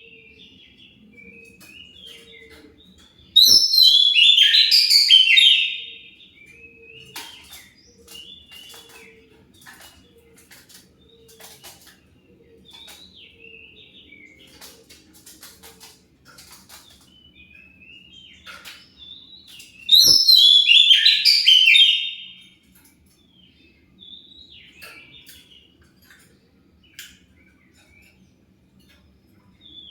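Oriental magpie-robin (kacer) singing in the 'fighter' style used as a lure to make other kacer answer. The song comes in two loud bursts of rapid, varied chirps, about three seconds in and again about twenty seconds in, with quieter scattered chirps and whistles between them.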